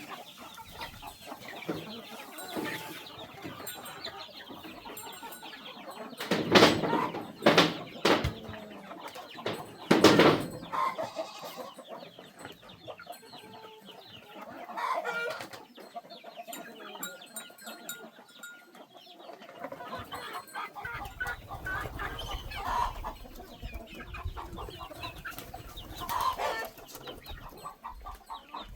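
Chickens clucking, with a few loud sudden sounds about six to ten seconds in and a low rumble joining in after about twenty seconds.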